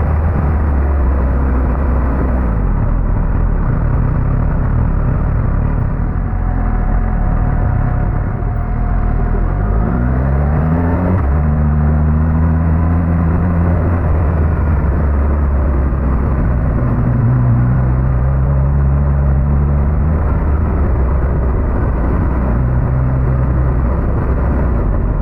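Suzuki GSX-S1000GT's inline-four engine running under way, with heavy wind and road rumble. About ten seconds in the revs climb briefly, then hold steady.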